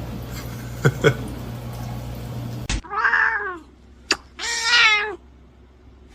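Domestic cat meowing twice, each meow an arching call about half a second long, after two short chirps about a second in. A steady low hum stops abruptly just before the first meow.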